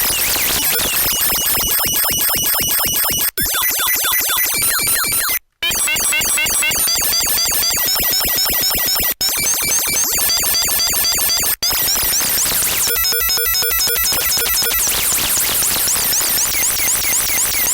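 Saw-wave Sylenth synth driven through a waveshaping saturator and played by an arpeggiator with portamento on slide, so its fast notes sweep between one another in a chirpy, computer-like warble. The sound cuts out briefly a few times, and for a couple of seconds near the end it turns into stepped bleeping tones.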